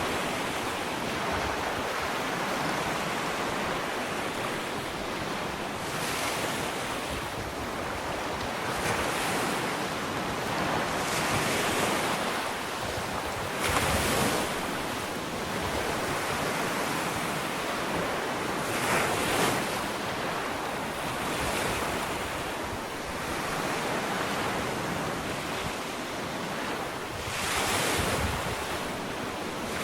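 Ocean waves breaking and washing on a sandy beach, a steady surf hiss with a swell every few seconds as each wave comes in. Some wind on the microphone runs underneath.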